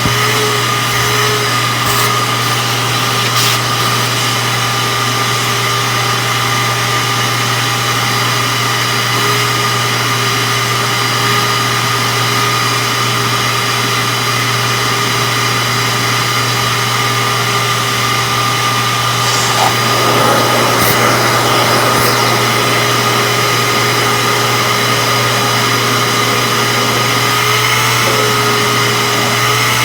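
Shop-Vac HangUp Mini wet/dry vac running steadily, its motor giving a constant whine over the rush of air. About two-thirds of the way through, the air rush turns louder and rougher.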